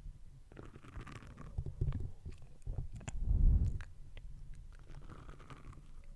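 Close-miked ASMR mouth sounds: soft wet clicks and smacks over a low rumble, with a louder low rumbling swell about halfway through.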